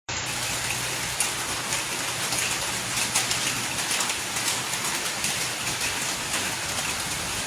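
Steady rain falling on a hard surface, a continuous hiss full of small drop ticks, with a faint low hum underneath.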